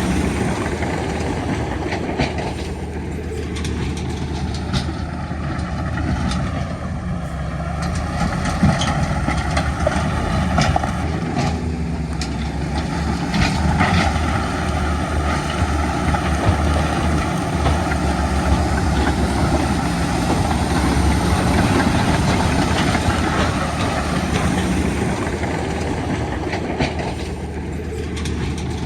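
Diesel engines of heavy earthmoving machinery running steadily, with a few sharp clanks.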